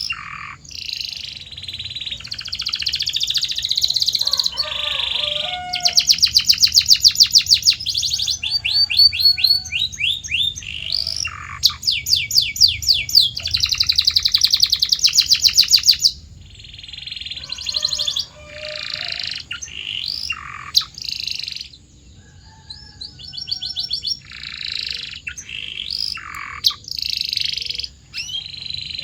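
Canary singing: long, very rapid trills and rolls alternating with quick whistled glides and short chirps.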